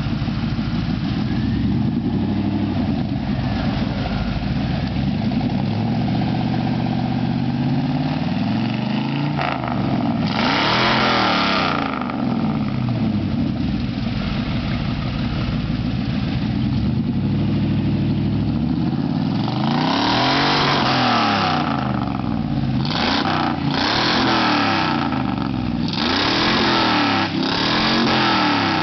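1988 Chevy Silverado's 350 small-block V8 running loud through new glass pack mufflers, idling with the throttle blipped over and over. Several bigger revs rise and fall, mostly in the second half.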